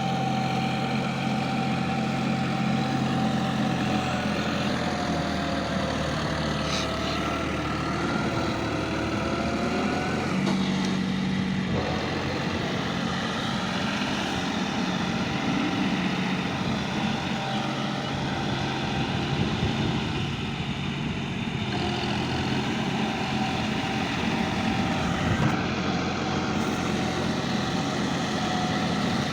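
John Deere 5050D tractor's three-cylinder diesel engine running steadily.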